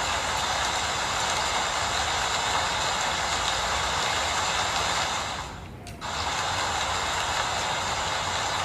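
Steady rainfall hiss. A little past halfway it briefly sinks away, then cuts back in abruptly.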